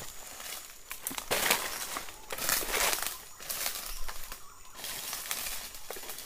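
Dry leaves and brush rustling and crunching in several separate bursts, as someone moves through forest undergrowth.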